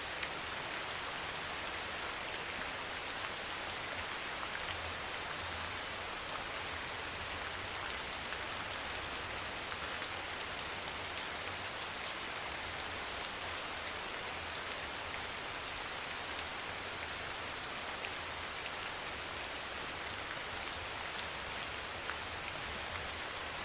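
Steady rain falling, an even hiss with scattered ticks of individual drops landing on a surface.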